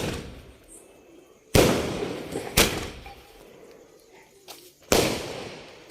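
Firecrackers going off: three sharp bangs, the second about a second after the first and the third about two seconds later, each dying away in an echo over about a second.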